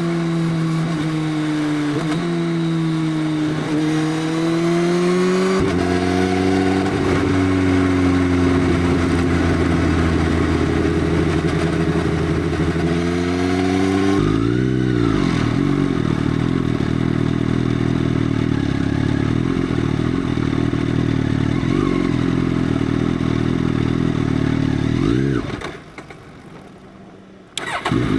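Motorcycle running through an aftermarket Arrow full exhaust with the dB killer removed, its engine pitch rising and falling as it is ridden and shifted. About halfway through there is a sweeping rise and fall in pitch, and near the end the sound drops away abruptly for about two seconds before coming back.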